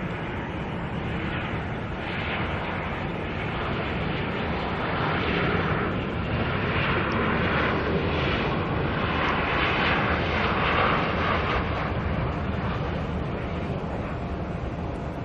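Jet airliner's engines roaring as it passes, swelling to a peak about two-thirds of the way through and then fading a little.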